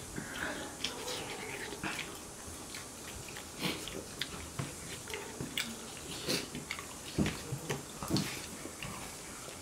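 A man eating by hand at close range, chewing with irregular wet smacks and small clicks of the mouth.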